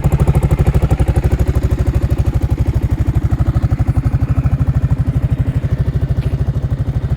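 Honda Forza scooter engine idling steadily, with an even, regular exhaust pulse of about ten beats a second.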